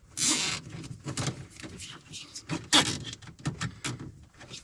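Hands working on heater wiring and small plastic parts: a short scraping rustle, then a string of irregular light clicks and knocks, the sharpest a little before three seconds in.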